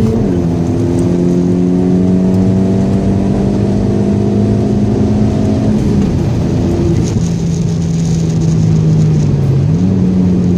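Seat Ibiza FR's hybrid-turbo engine heard from inside the car at full throttle on track. Its note drops right at the start, then climbs slowly for about six seconds. After that it falls to a lower, steady note and steps back up near the end.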